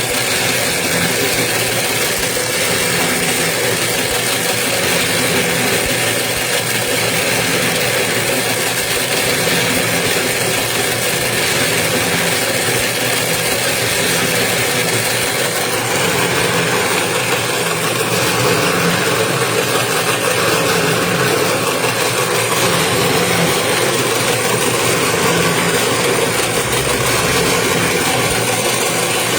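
Toroidal transformer winding machine running steadily, its motor driving the wire shuttle ring around the core with a continuous mechanical hum and rattle.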